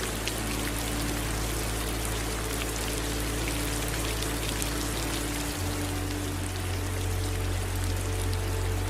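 Steady rain with scattered drops ticking, over the rush of running water. A low hum underneath changes about five and a half seconds in.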